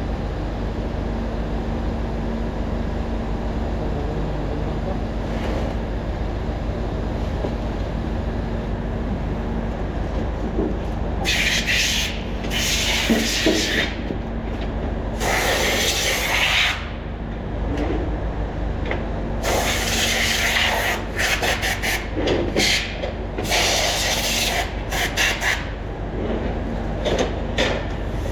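Repeated bursts of loud hissing spray, a second or two each, starting about eleven seconds in, as transmission valve body parts are cleaned. A steady machinery hum runs underneath throughout.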